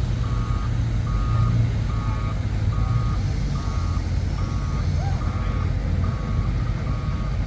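A vehicle's reversing alarm beeping steadily at one pitch, a little more than once a second, over the low rumble of an engine running.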